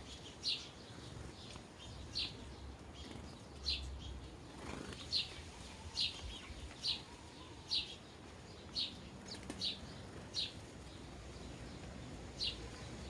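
Sparrows chirping: a string of short, single chirps, roughly one a second.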